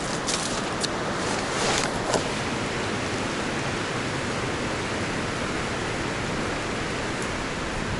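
Strong wind rushing steadily through forest trees, with a few brief rustles in the first two seconds.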